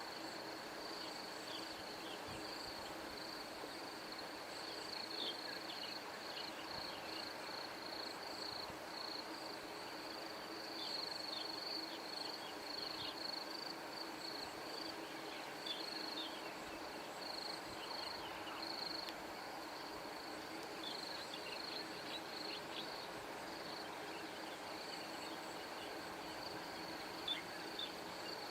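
Steady high-pitched insect trill, with short falling bird chirps scattered through it.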